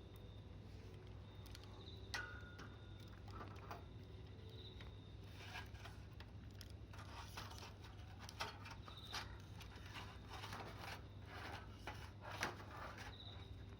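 Small wood campfire crackling, with irregular sharp pops and snaps that come thicker in the second half.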